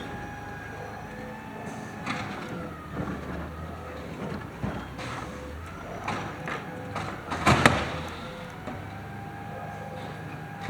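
Automated side-loader garbage truck running, with a steady hydraulic whine that shifts slightly in pitch as the arm works. It is punctuated by several clanks and a loud cluster of bangs about three quarters of the way through, as the recycling cart is slammed against the hopper.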